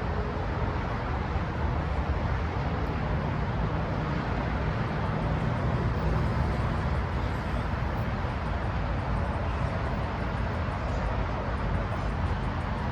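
Steady low rumble with a broad hiss, from a Tri-Rail diesel commuter train running at the station platform.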